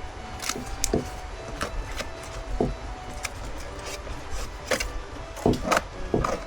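Scattered light knocks and clicks of objects being handled, irregular and a little busier around five to six seconds in.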